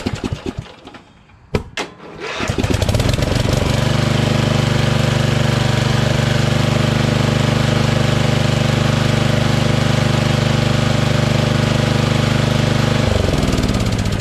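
Craftsman LT2000 lawn tractor's Briggs & Stratton engine: two sharp clicks, then the engine catches quickly about two seconds in on its newly replaced starter and runs at a steady speed. About a second before the end it is shut off and runs down. The starter was the cause of the no-start.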